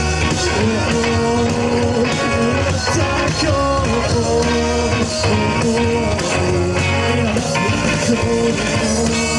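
Rock band playing live, with guitar over a steady drum beat.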